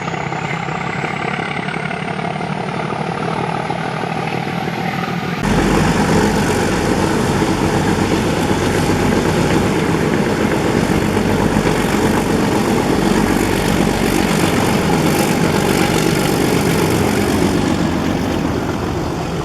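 YDM4 diesel locomotive engine running with a steady drone. About five seconds in, the sound jumps abruptly louder and rougher, then holds steady.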